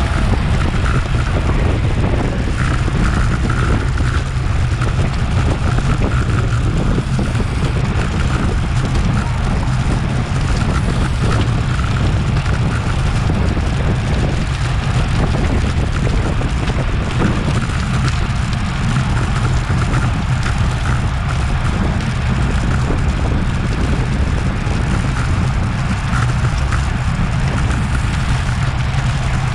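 Steady wind rushing over a Garmin VIRB action camera's microphone as the bicycle rides at race speed, a constant low rumble of buffeting.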